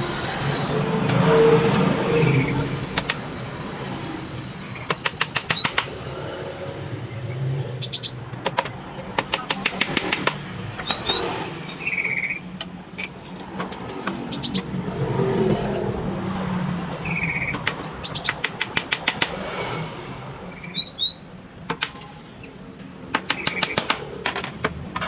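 Small hammer tapping nails into a bird cage's feet in quick runs of light taps, repeated several times over a steady background noise.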